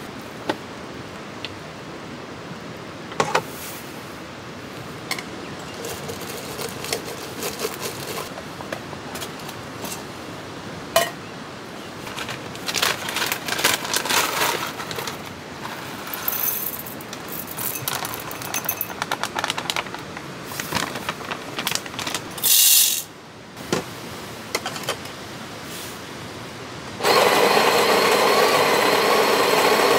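Gear being handled, with scattered clicks, knocks and rustling and a short hiss about 23 s in. About 27 s in, a motor starts and runs steadily with an even pitched hum.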